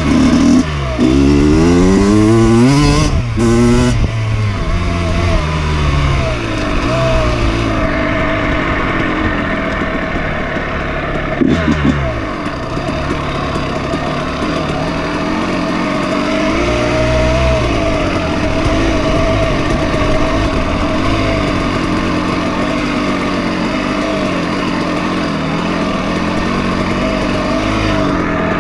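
Dirt bike engine revving up and dropping back several times in quick succession over the first few seconds, then running at a steadier pitch with gentle swells and one quick blip of the throttle about halfway through.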